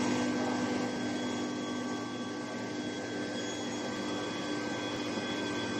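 Induction heating line for steel pipe running: a steady machine hum and hiss with a few steady tones held throughout.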